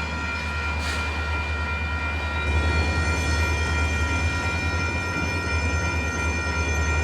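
Intermodal freight train rolling past: a deep, steady rumble of the cars with a steady high-pitched ringing squeal from the wheels, growing louder about two and a half seconds in.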